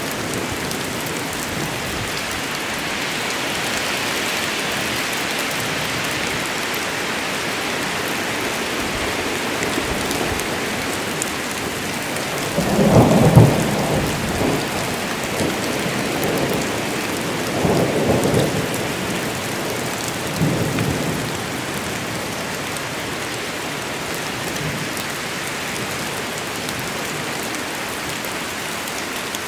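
Steady heavy rain falling, with thunder: a loud rumble about halfway through, then two fainter rumbles a few seconds later.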